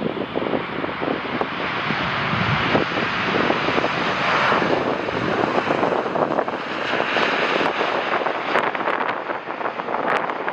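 Jet airliner passing on its landing approach, its engine rush swelling to a peak about four to five seconds in and then easing off, with wind buffeting the microphone.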